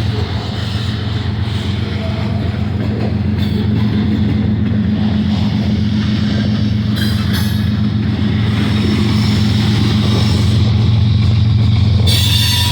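Freight cars of a long manifest train rolling past on the rails, a steady low rumble that grows slowly louder, with a brief high hiss near the end.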